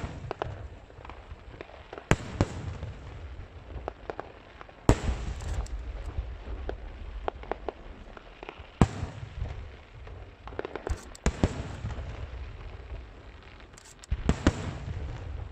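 Aerial fireworks shells bursting overhead: sharp bangs every few seconds, each followed by crackling and a rumbling echo, with smaller pops in between.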